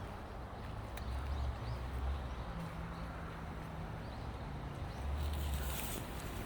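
Footsteps of a person walking along a trail at an even pace, over a steady outdoor background with a low rumble.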